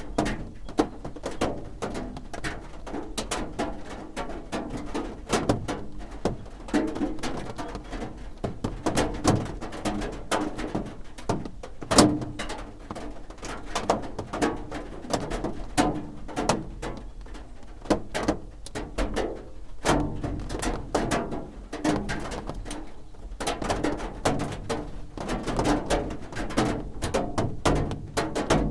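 Raindrops drumming on a roof: a dense, irregular patter of taps and knocks, with one louder knock about twelve seconds in.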